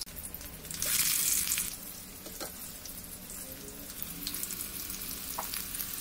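Stuffed bitter gourds (karela) shallow-frying in hot oil in a kadai. A louder burst of sizzling about a second in settles into a steady sizzle with small scattered crackles.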